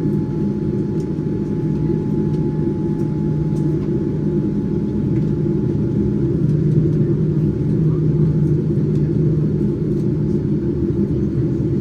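Cabin noise of a Boeing 787-9 airliner taxiing, heard inside the cabin: a steady low rumble of the engines at taxi power and the airframe rolling, with a low hum.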